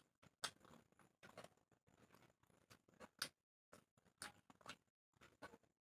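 Faint, irregular crunching of someone chewing crisp fried onion pakora, a few crunches a second with short pauses between them.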